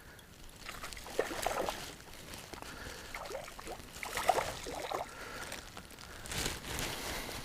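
Water splashing and sloshing in several short, irregular bursts.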